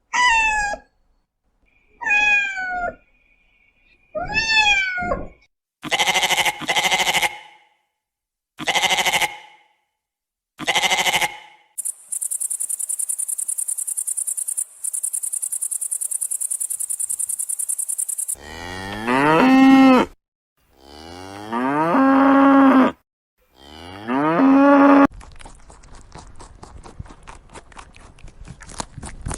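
A run of separate animal calls: three short calls that fall in pitch, a few short rough calls, and a high, fast-pulsing buzz lasting about six seconds. Then three long, deep cow moos, each rising at the start, followed by fast light ticking.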